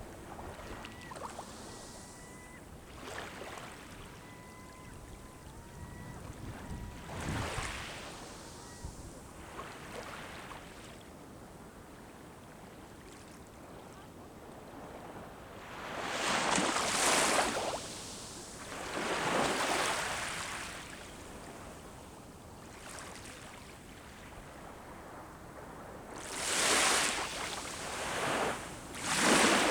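Sea waves breaking and washing up the shore, coming in slow surges, with the loudest breakers about halfway through and again near the end.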